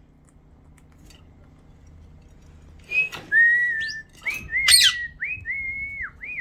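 After about three seconds of quiet, a run of clear whistled notes, each held steady and then dropping sharply in pitch, mixed with a pet bird's sharp chirps.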